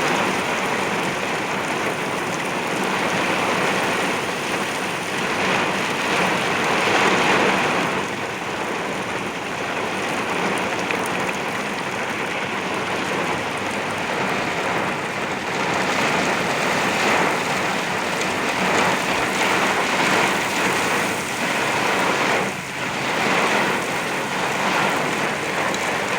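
Very heavy wind-driven rain pounding on a vehicle's windshield and body, heard from inside the cabin, like going through a car wash. A dense, steady roar of rain that swells and eases a little with the gusts.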